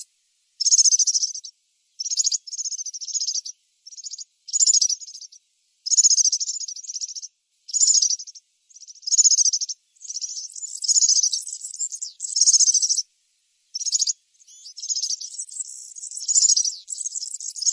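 European serin singing: a string of high, fast, jingling twitter phrases, each about a second long, separated by short breaks.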